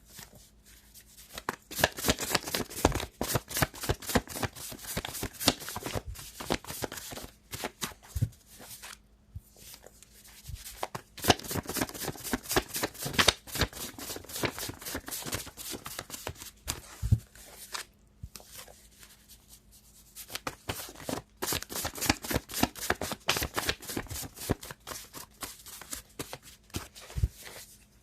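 A deck of tarot cards being shuffled in three long bouts of rapid flicking and clicking, with short pauses between them.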